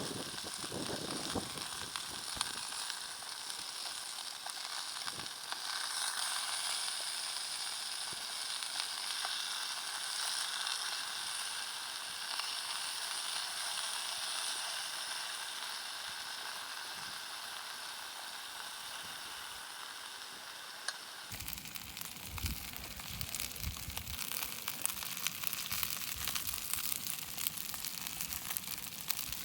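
Sausages sizzling in a pan on a camping gas stove, over the steady hiss of the burner. About two-thirds of the way through, the sound changes abruptly to a rougher crackling with low thumps.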